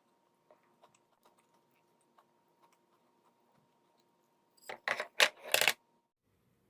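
A quick run of sharp clattering strikes, like small hard objects knocking together, about five seconds in, over a faint steady hum and a few light ticks.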